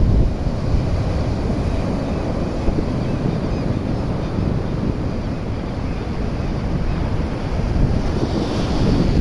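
Ocean surf washing on a beach, with strong wind buffeting the microphone in a low, uneven rumble.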